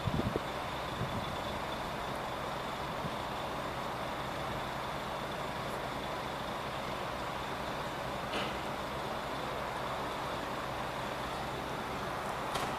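Steady, even noise of trucks running, with two brief clicks, one about eight seconds in and one near the end.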